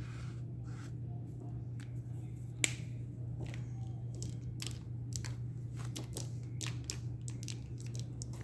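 Acrylic paint marker tapping and clicking against mixed media paper while drawing, in scattered light ticks with one sharper click about two and a half seconds in, over a steady low hum.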